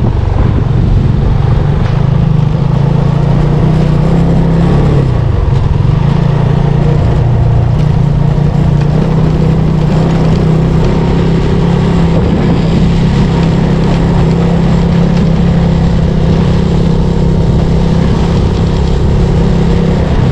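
Benelli TRK 251 adventure motorcycle's single-cylinder engine running steadily while riding. Its pitch dips briefly about four to five seconds in, then picks up again.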